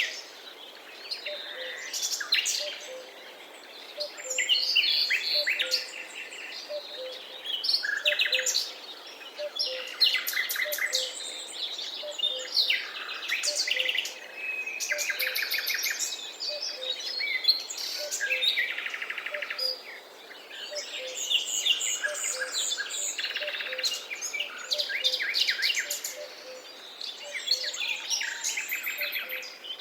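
Forest bird chorus: several birds singing and calling over one another in overlapping chirps and rapid trills, with a faint low note repeating steadily underneath.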